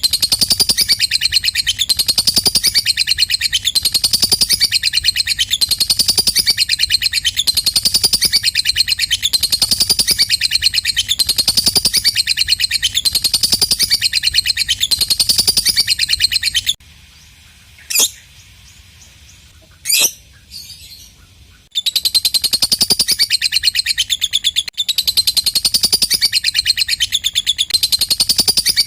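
Lovebird ngekek: a long, fast, high-pitched chattering trill going on without pause. It breaks off for about five seconds past the middle, when two sharp clicks are heard, then starts again.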